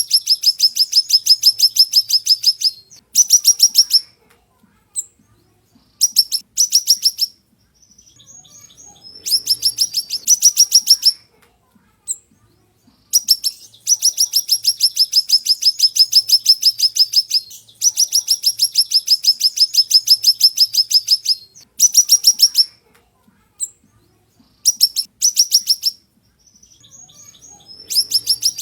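Siri-siri (golden-bellied gerygone) singing: high, rapid trills of repeated notes, about ten a second, in phrases from under a second to several seconds long with short pauses between, and a few softer chirps in the gaps.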